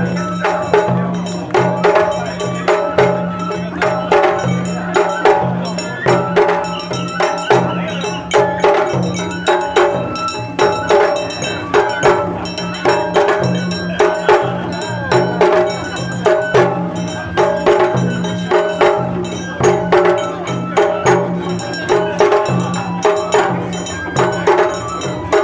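Japanese festival hayashi music: drums and a small metal gong struck in a steady repeating rhythm, with a held, pitched melody line over them.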